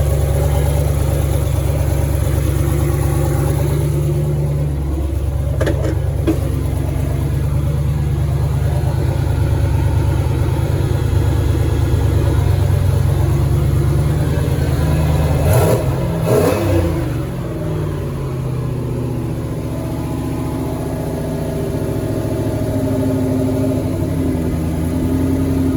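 Car engine running at a fast idle, with two brief swings in pitch, a small one about six seconds in and a bigger one about sixteen seconds in. The idle is set too high because the throttle is held open, which the owner puts down to a missing throttle idle screw.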